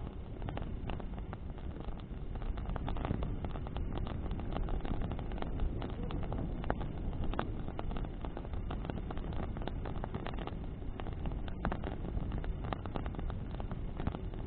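Bonfire burning in the wind: frequent, irregular sharp crackles and pops of burning wood over a steady low rush of flames and wind.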